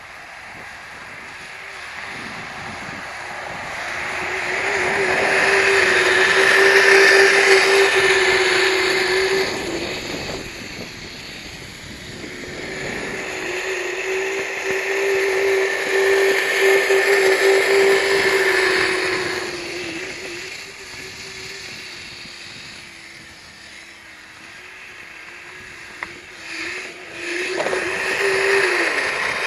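A Kyosho Blizzard radio-controlled snowcat's electric motor whining at a steady pitch, over a rushing hiss from the running tracks. It grows loud twice as it comes close, rises again near the end, then cuts off.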